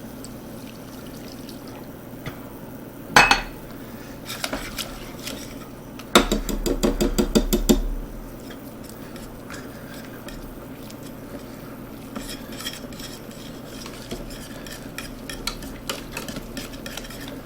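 Wire whisk stirring a roux of butter, flour and chicken stock in a pot, clinking and scraping against the pan in quick strokes. There is a single knock about three seconds in, a louder spell of fast whisking about six seconds in, and lighter whisking again near the end.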